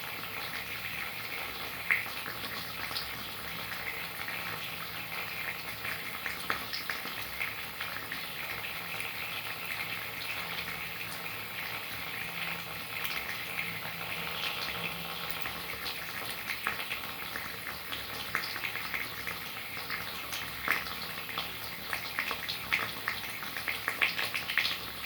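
Steady rain, an even hiss dotted with many small sharp drop ticks.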